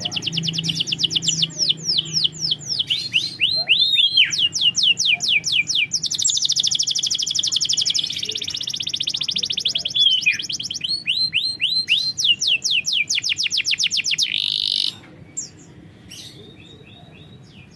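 Domestic canary singing a long, loud song of fast, high trills, rolling runs of rapidly repeated notes with a few downward sweeps. It stops about fifteen seconds in, followed by a few faint chirps.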